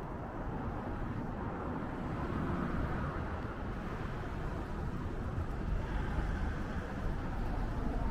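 Steady wind and road noise while riding a bicycle through city streets, with a low rumble of traffic and no single event standing out.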